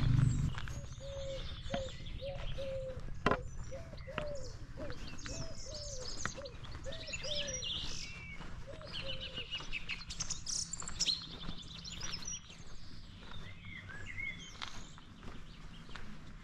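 Small birds chirping and singing, with a lower note repeated about twice a second for the first several seconds, over a steady low background and a few faint clicks.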